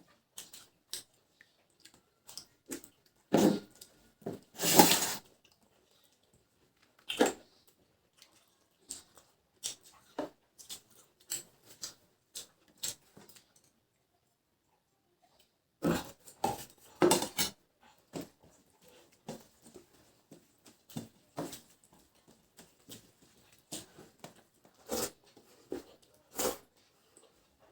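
Two people eating a rice and vegetable meal quickly: irregular chewing, lip smacking and small clicks, with a few louder clatters of dishes, bunched about four to five seconds in and again around sixteen to seventeen seconds in.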